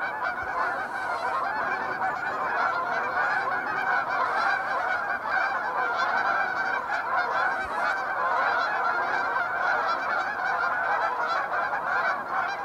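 A large flock of Canada geese, hundreds of birds, squawking and honking all together, so that the calls overlap into one continuous, unbroken din.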